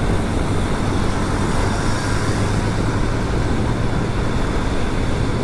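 Motorcycle riding at speed: a steady rush of wind on the microphone over the engine and road noise, with no changes.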